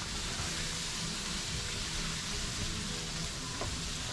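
Curry masala with green mango, okra, tomatoes and scallions frying down in a pot, giving a steady, even sizzle while a wooden spoon stirs it.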